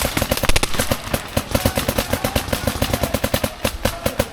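Paintball marker firing a rapid, steady stream of shots, about ten a second.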